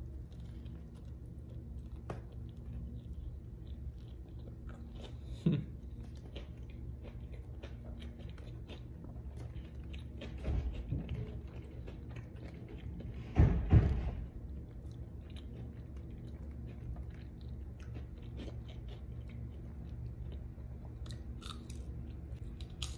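Close-up chewing of a Popeyes spicy fried chicken sandwich with pickle: soft crunching of the crispy breading and wet mouth sounds. There are a few louder mouth noises, the loudest about thirteen seconds in.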